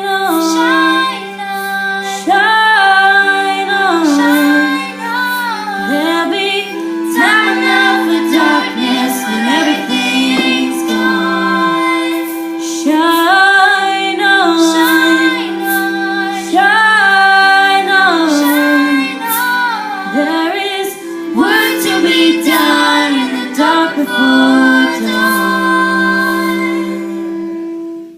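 Music: female voices singing a melody without clear words over steady held notes, dropping away at the very end.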